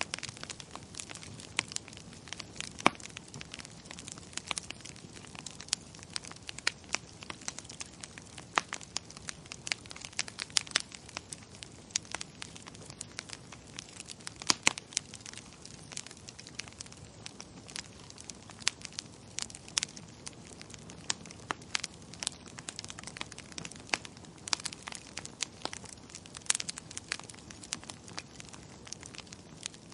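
Wood fire in a fireplace crackling: irregular sharp snaps and pops, several a second with an occasional louder one, over a steady low rush of burning.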